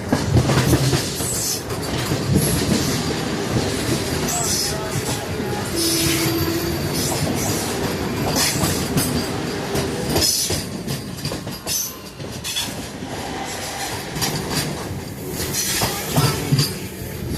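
Railway wheels clattering over rail joints and points, with sharp clicks and intermittent high squeals, heard from aboard a moving train. A brief steady tone sounds about six seconds in.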